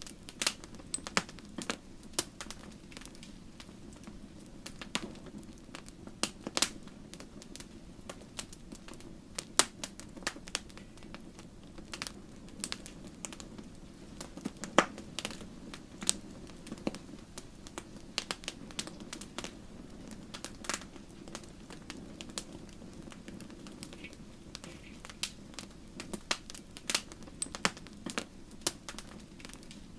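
Wood fire burning in a fireplace, crackling with frequent irregular sharp pops over a low, steady rumble of the flames.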